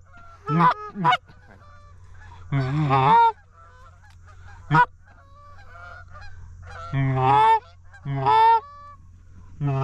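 Canada goose honks: about eight loud calls, mostly short and irregularly spaced, with one longer honk about three seconds in.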